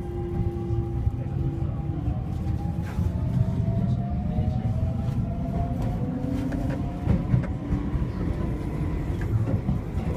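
Keio 8000 series commuter train running, heard from inside the car: a steady rumble of wheels on rail with a thin electric motor whine that slowly climbs in pitch, and occasional clicks from the track.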